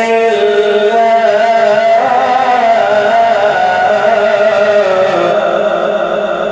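A man's voice reciting the Quran in melodic tajweed style, holding one long ornamented note on the closing word "Allah" of "min khashyat Allah". The note wavers and steps down in pitch twice.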